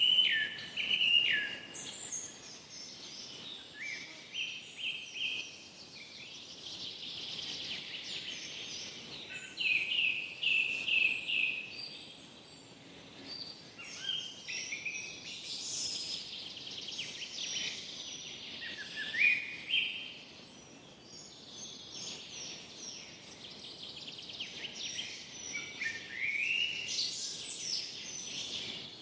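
Forest ambience of several songbirds singing and calling in turn: short chirps, quick trills and downward-slurred notes, over a faint steady background hiss.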